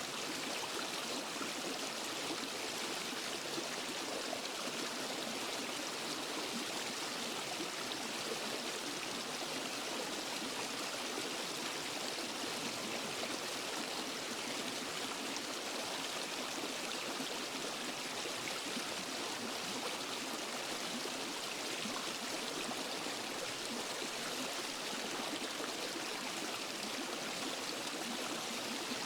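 Stream and small waterfall water rushing and splashing over rocks, a steady, unbroken flow.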